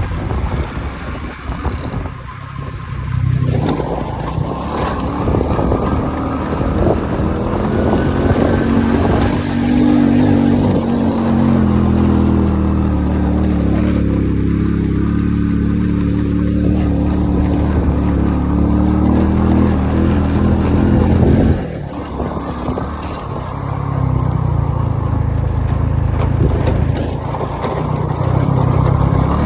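Motorcycle engine running under way, its note rising and falling with the throttle. It eases off about two-thirds of the way through, then picks up again.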